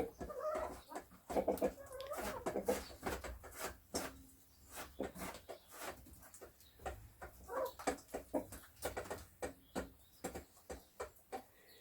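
Chickens pecking quickly at food on the floor, many sharp irregular taps, with a few soft low clucks now and then.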